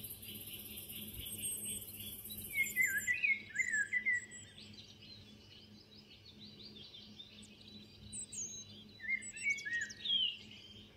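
Wild birds chirping in quick rising and falling notes, in one bout about two seconds in and another near the end, over a faint high hiss during the first few seconds.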